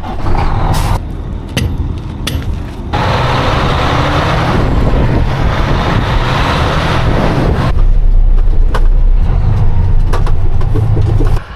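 A heavy vehicle's engine running with a deep rumble, joined by a loud rushing noise for several seconds in the middle; the sound cuts off suddenly near the end.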